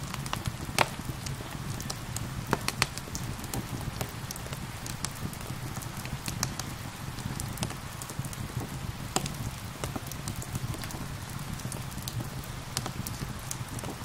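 Wood fire crackling, with irregular sharp pops, the loudest about a second in and between two and three seconds in, over a steady hiss of rain.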